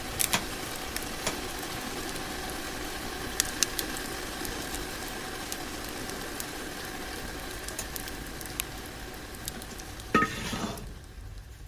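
Food sizzling and frying in a pan, with a few sharp clicks of a utensil against it. About ten seconds in there is a brief clatter, and then the sizzling stops abruptly.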